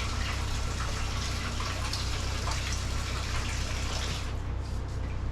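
Water running steadily from a kitchen faucet, shut off about four seconds in, over a low steady hum.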